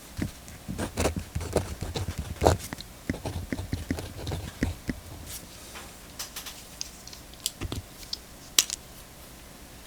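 Quick clicks and light taps from handling Pentel GraphGear 1000 mechanical pencils on a desk. They come thick and fast for the first few seconds and thin out to scattered single clicks after about halfway.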